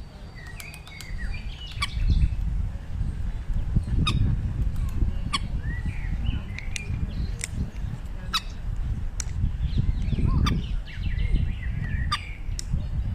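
Birds calling, with short chirps and squawks in quick succession. Sharp clicks come through every second or so, over a steady low rumble.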